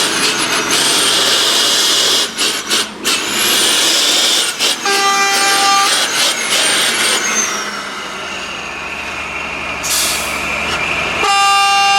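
Heavy truck with a loud hiss and engine noise, and two blasts of a truck horn: a short one about five seconds in and a longer one near the end. A low engine drone comes in about eight seconds in.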